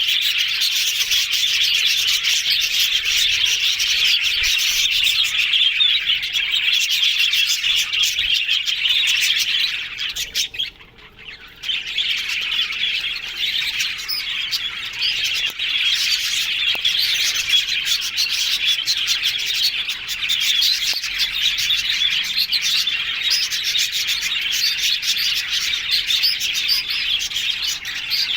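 Budgerigars chattering and warbling in a dense, continuous stream of high chirps, with a brief lull about eleven seconds in.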